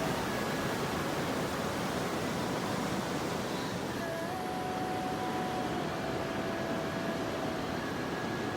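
Waterfall and mountain stream water rushing in a steady, even hiss.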